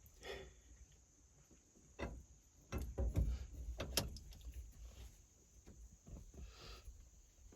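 Scattered clicks and knocks of small parts and tools being handled, with sharper clacks about two, three and four seconds in.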